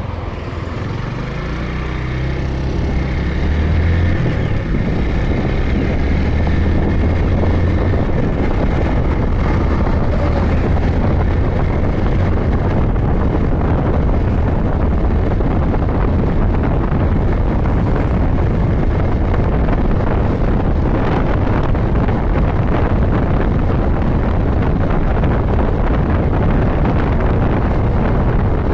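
Motorcycle engine accelerating over the first few seconds, then running steadily at cruising speed under heavy wind noise on the microphone.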